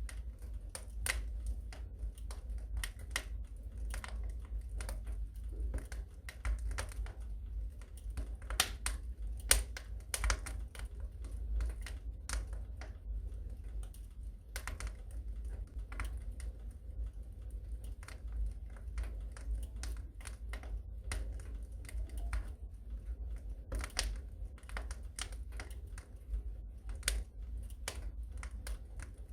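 Wood fire crackling in a fireplace: irregular snaps and pops of varying loudness over a low steady rumble.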